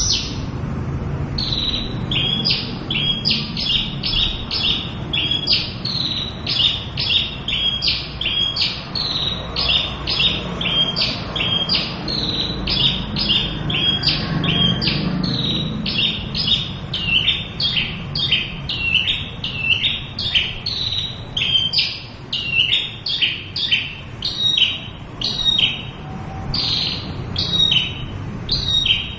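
Javan bushlark (branjangan) singing a continuous run of short, sharp chirps, about two a second, with a low hum underneath.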